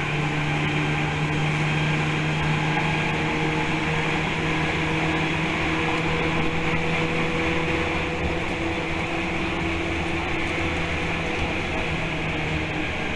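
Tokyu 8500 series electric train heard from inside the car while running: a steady motor and gear hum with several held tones over the rumble of the wheels. Some of the tones drop away in the second half.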